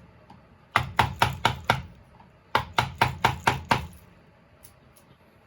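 A carving tool chopping into wood in two quick runs of sharp strikes, about five and then six, roughly four a second, while a wood carving is cut.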